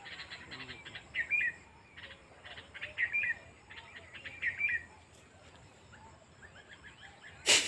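Small birds chirping in short repeated phrases, about one a second. Near the end comes a short, loud splash of water as a fish is hooked.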